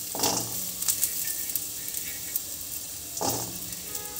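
Chopped jackfruit seeds sizzling in a little oil in a steel pan. There are two louder bursts, one just after the start and one a little past three seconds, as handfuls of seed pieces are dropped in.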